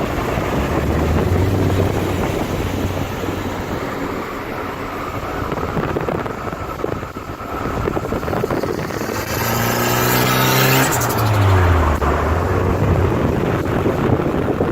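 Turbocharged 1.3-litre four-cylinder engine of a Toyota Starlet Glanza V, with a CT9 hybrid turbo on low boost. It runs under way, then climbs in revs about two-thirds of the way in. As the revs peak and drop, the screamer pipe vents a loud rushing hiss with turbo flutter.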